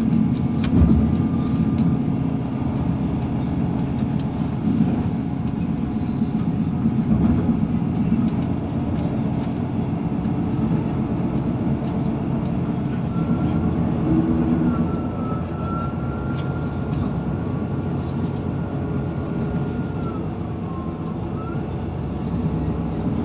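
Inside the carriage of a Class 158 diesel multiple unit running at speed: a steady low rumble of engine and wheels on the rails, with light clicks. A faint high whine comes in about halfway through and dips in pitch near the end.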